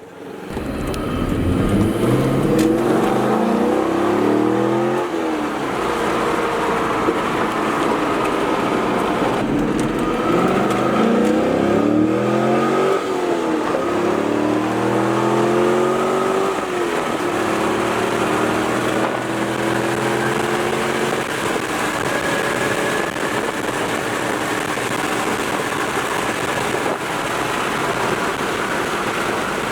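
Car engine accelerating hard through several gears, its pitch climbing and dropping at each upshift, then settling into a steady cruise with heavy wind and road noise.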